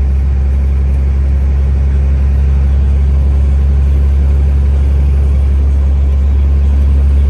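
Steady low drone of a truck's diesel engine and road noise heard inside the cab while driving at cruising speed.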